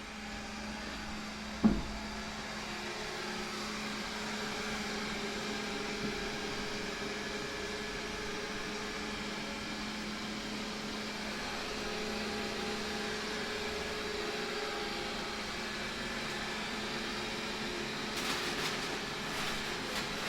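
Vacuum cleaner running with a steady hum. A sharp thump comes about two seconds in, and a few light clicks near the end.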